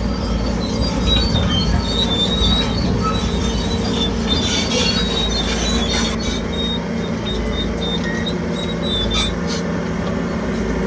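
Crawler bulldozer working: its diesel engine runs steadily under load while the steel tracks squeal and clank intermittently.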